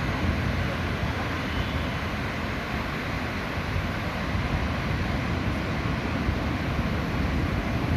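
Steady roar of ocean surf breaking on a beach, an even rushing noise without pauses.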